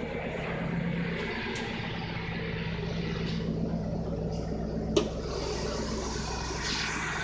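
Ford F-150 SVT Lightning's V8 engine idling steadily, with one sharp click about five seconds in.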